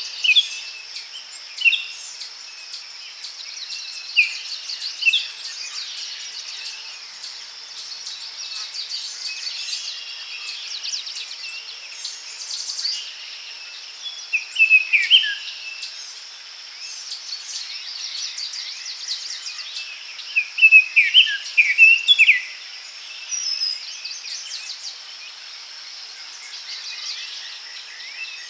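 Daytime forest ambience: a steady high insect drone with birds calling on and off over it. The loudest bird phrases come about halfway through and again a few seconds later.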